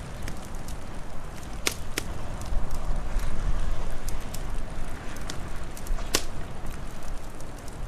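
Wood fire crackling, with scattered small snaps and a few sharp pops, three of them loud, over a low wind rumble that swells in the middle.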